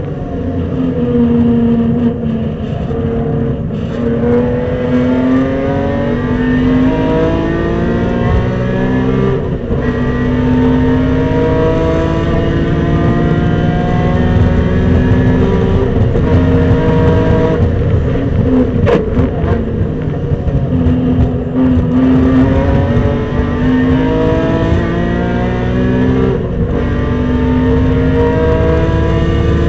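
Supercharged BMW E46 M3's straight-six engine at full throttle on a race track, climbing steadily in pitch and dropping back sharply about five times as it is driven through the gears and into corners.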